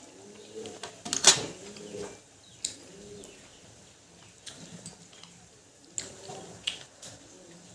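Pigeons cooing over and over in soft low calls, with a few sharp clicks scattered through. The loudest click comes about a second in.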